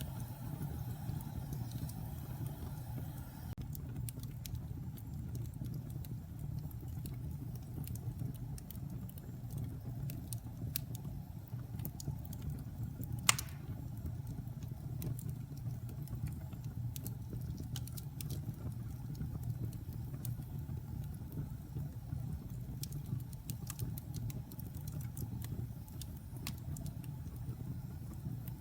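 Wood fire burning in a fireplace: a steady low rush with scattered crackles and one loud pop about halfway through.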